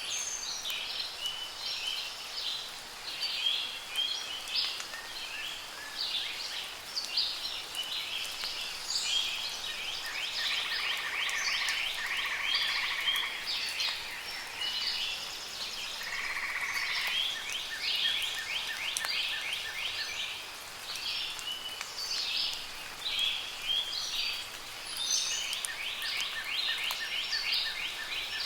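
A chorus of many songbirds singing, with chirps and whistled phrases overlapping throughout and rapid trills partway through, over soft rain.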